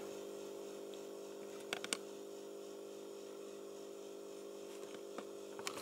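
Quiet room tone: a steady low hum, with a few faint clicks just before two seconds in and a couple more near the end.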